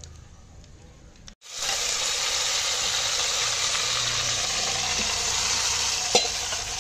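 Hot oil in a clay pot sizzling loudly and steadily as marinated chicken is tipped in, the sizzle starting suddenly about a second and a half in after a near-quiet start. A single sharp clink near the end.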